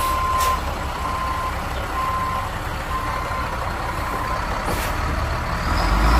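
Reversing beeper on a Peterbilt dump truck, sounding a steady tone about once a second while the truck backs up. The diesel engine runs underneath and grows louder near the end.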